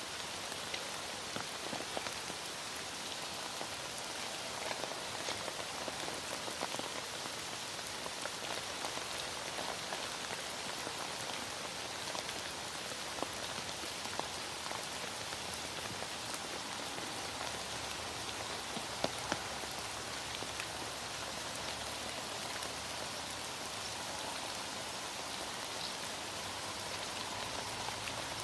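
Heavy rain falling steadily, a constant hiss dotted with the ticks of single drops, two of them sharper about two-thirds of the way through.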